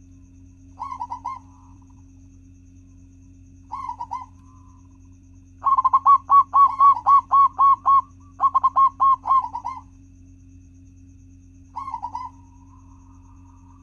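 Zebra dove (perkutut) cooing in rapid staccato series. A short burst comes near the start, another about 4 s in, a long run of quick coos from about 6 to 10 s, and a short burst near 12 s, over a steady low hum.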